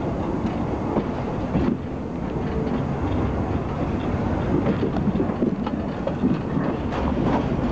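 Train running along the track, heard from the open rear platform of a caboose: a steady rumble from the wheels with occasional clicks over the rails.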